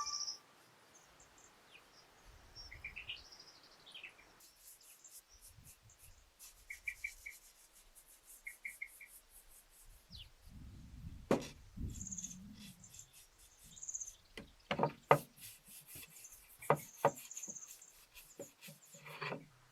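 Small birds chirping in short repeated notes, with several sharp knocks from about halfway through and a brief low rumble near the middle.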